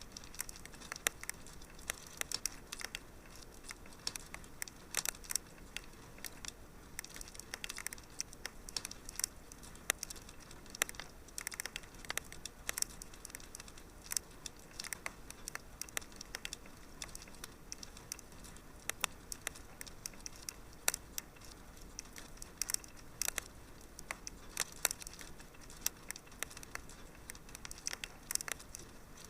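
Wood fire burning in a fireplace, with irregular sharp crackles and pops, several a second, over a soft steady hiss.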